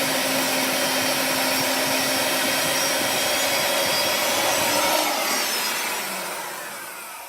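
Portable bandsaw running as it cuts through a metal brake part; about five seconds in the motor is let off and winds down, its pitch falling.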